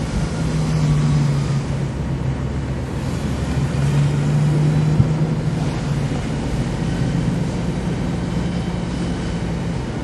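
Car engine running at low revs, heard from inside the cabin as a steady low drone while the car rolls slowly, with a single sharp click about five seconds in.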